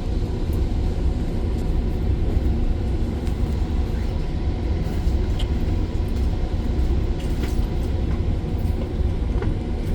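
GO Transit commuter train heard from aboard as it pulls out of the station: a steady low rumble of the running train with a few faint clicks and rattles.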